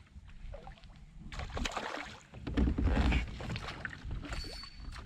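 Water splashing and sloshing around a kayak, in two louder stretches of about a second each over a low rumble.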